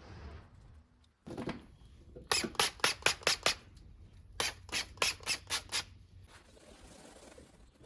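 Hand trigger spray bottle spritzed rapidly in two runs of about six quick sprays, each a short sharp hiss.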